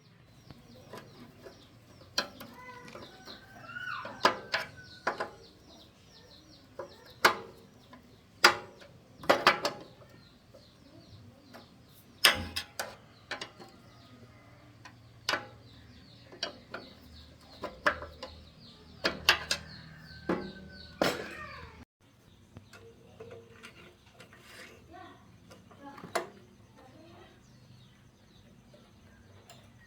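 Irregular sharp clicks and knocks, about fifteen of them at uneven intervals, with a chicken or other bird calling a few times in the background.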